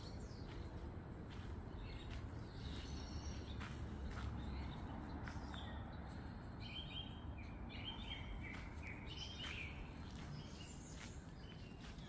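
Small birds chirping and singing in short phrases, most busily from about two seconds in and again from about six to ten seconds in, over a steady low background hum.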